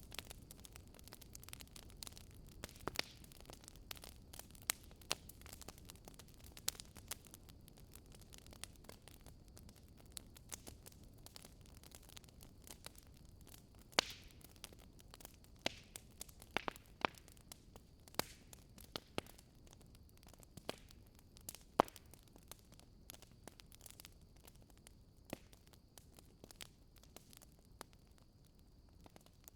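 Wood fire in a fireplace crackling: irregular sharp pops and snaps, a few louder than the rest, over a low, steady rumble of burning.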